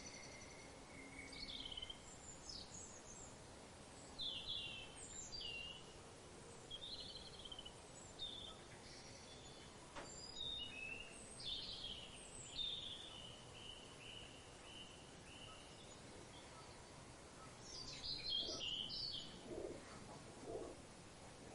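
Several birds calling at once: short, high chirps and trills scattered throughout over a faint background hiss, with lower, cooing calls joining in near the end.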